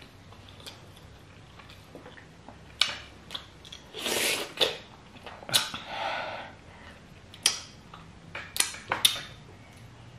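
Loud open-mouthed smacking and chewing of fufu with peanut soup, eaten by hand, with sharp wet smacks at irregular moments, several close together near the end, and finger-licking.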